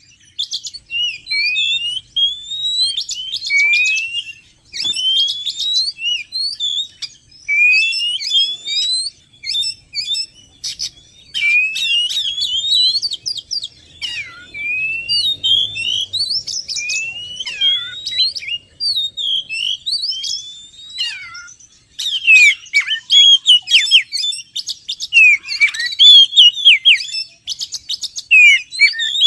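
Oriental magpie-robin (kacer) singing a varied song of rising whistles, down-slurred notes and quick ticking chirps, phrase after phrase with brief pauses, as used for a bird-lure recording.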